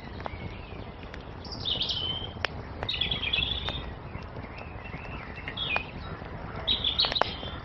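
Songbirds singing short chirping phrases, about four of them, over a crackling wood fire that gives scattered sharp pops above a steady low rumble.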